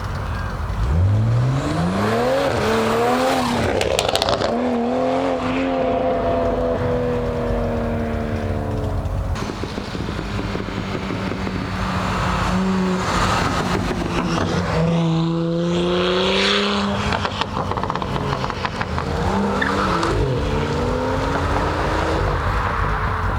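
Car engines revving hard as cars accelerate away one after another: the pitch climbs sharply, then holds and drops as each car pulls past and fades, with a fresh rev-up near the end.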